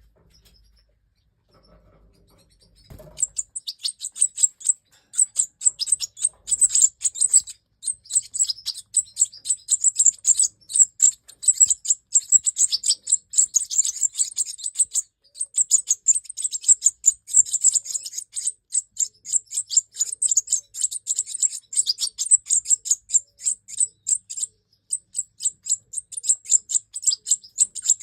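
European goldfinches chirping: a dense, rapid run of high twittering chirps that starts about three seconds in and keeps going with only brief pauses.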